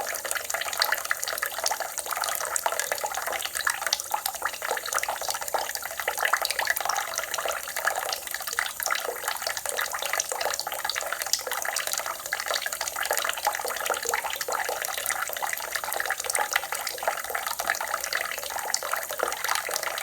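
Water running steadily, a continuous splashing flow with no letup.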